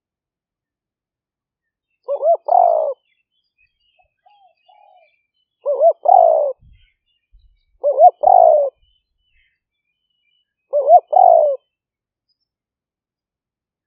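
Spotted dove cooing: four calls a few seconds apart, each two short notes followed by a longer, fuller note.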